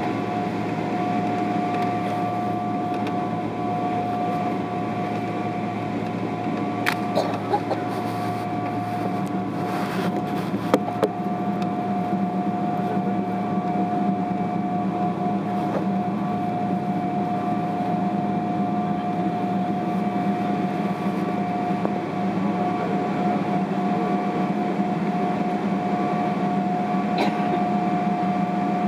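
Steady cabin drone of a Boeing 777-300ER on the ground before takeoff, its GE90 engines idling and the air conditioning running, with a constant whine over a low hum. A few faint clicks come through about a third of the way in and again near the end.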